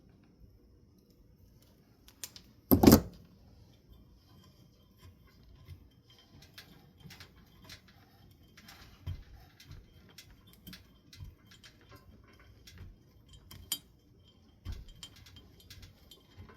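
Metal ceiling fan parts being handled during reassembly: scattered small clicks, clinks and taps, with one loud sharp knock about three seconds in.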